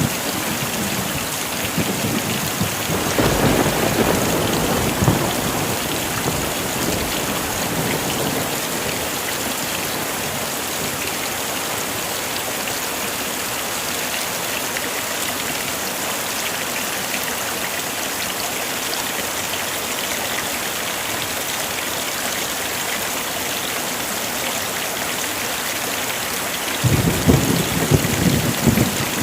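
Heavy rain falling steadily with thunder. A low rumble of thunder comes about three seconds in, and another starts near the end.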